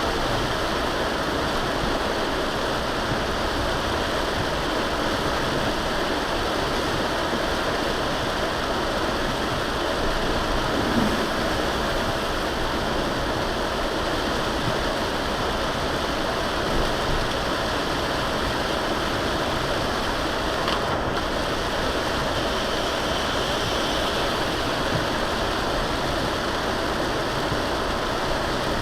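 Steady rushing hiss of a vehicle driving on a rain-soaked road: tyres throwing up spray, mixed with rain.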